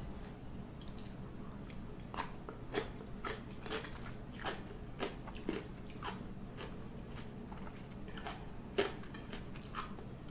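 Close-up chewing and crunching of crisp vinegar-pickled vegetables, with irregular crunches from about two seconds in; the vegetables are still crunchy after pickling.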